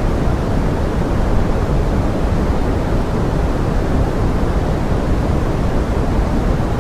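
Steady pink noise, an even rushing hiss heaviest in the low end, as used for forest-rain ambience; no separate drops or other events stand out.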